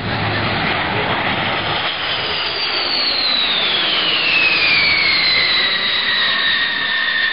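B-52 bomber's eight TF33 turbofan jet engines passing by in a loud steady roar. A high whine drops in pitch from about two seconds in and then holds lower: the Doppler shift as the aircraft passes.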